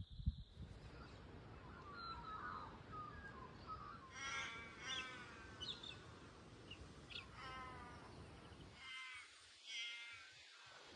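Birds calling: a run of faint, harsh, drawn-out calls, several in a row starting about four seconds in, over a light background hiss.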